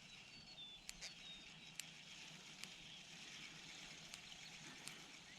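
Near silence: faint outdoor pondside ambience with a few soft scattered ticks and a couple of brief, faint high chirps about half a second in.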